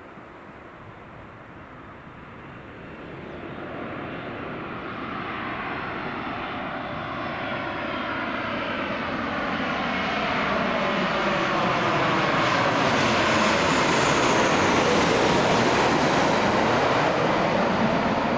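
Passenger aircraft's engines approaching and passing close by, growing steadily louder over about ten seconds to a peak near the end, with tones sweeping up and down as it passes.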